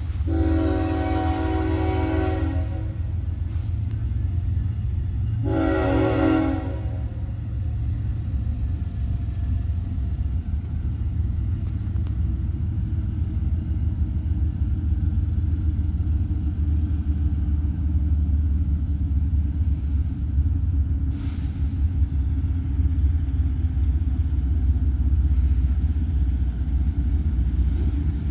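Diesel locomotive's air horn sounding a chord, one long blast then a shorter one a few seconds later, over the steady low rumble of the train.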